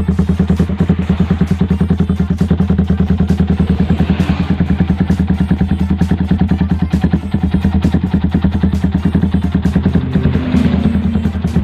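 Yamaha Vixion's 150 cc single-cylinder four-stroke engine idling through an aftermarket racing exhaust, with a rapid, even pulse. The pitch rises briefly near the end.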